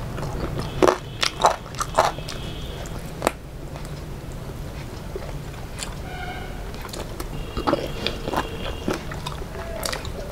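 Close-miked chewing and biting of fried fish and rice eaten by hand, with wet mouth sounds and sharp crunches. The crunches are bunched in the first few seconds and come again in the second half.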